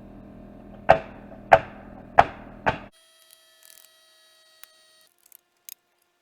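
Four hammer blows on wooden framing, about two-thirds of a second apart, each with a brief ring, as a nail is driven into the frame. The sound cuts off suddenly just before halfway, leaving only a few faint clicks.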